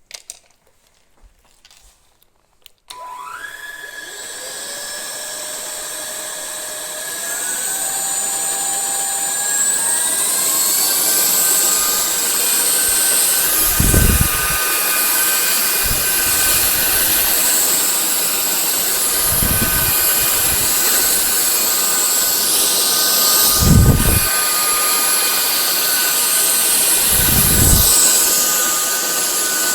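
Cordless stick vacuum's motor starting up, its whine rising in pitch in steps over several seconds and then running steadily at a high pitch, with occasional low thumps.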